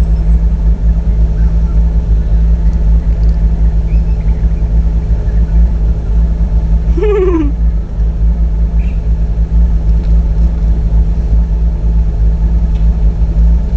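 Car engine running at a steady speed, a loud, even low rumble. About seven seconds in there is a brief falling-pitched sound.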